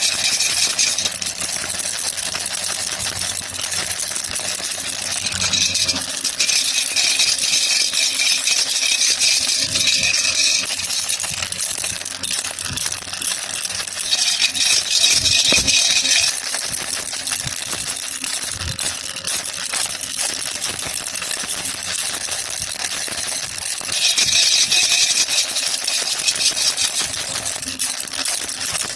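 Baby rattle (jhunjhuna) shaken continuously, a dense jingling rattle of small beads. It swells into louder, brighter spells four times.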